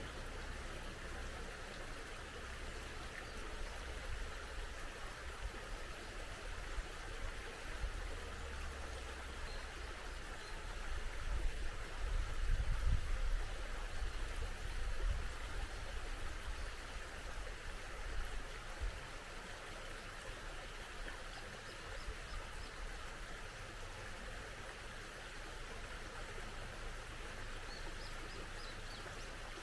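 Stream water running steadily. A low rumble swells for a few seconds midway, and a bird gives a few faint, brief chirps twice.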